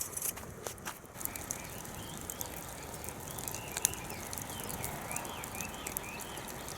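Wood fire crackling in irregular sharp pops and clicks, with faint short bird chirps repeating from about two seconds in.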